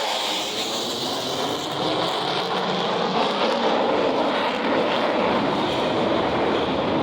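Single-engine F-16 Fighting Falcon jet flying, a steady, loud jet noise with a faint high whine that falls slightly in pitch during the first few seconds.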